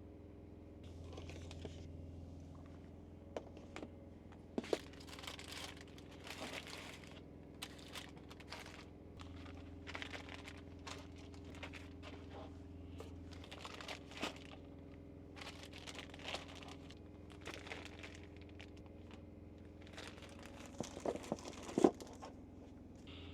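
Crinkling and rustling of plastic meal-prep containers and food being scooped and portioned into them, with scattered sharp clicks and a louder cluster of clicks near the end, over a faint low hum that comes and goes.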